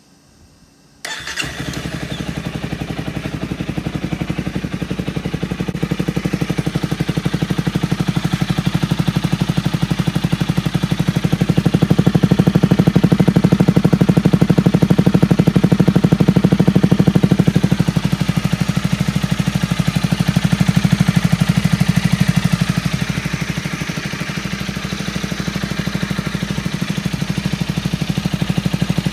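Honda Rebel 250 motorcycle engine starting about a second in and then idling through a homemade muffler. The exhaust note swells for a few seconds midway, then settles back to a steady idle.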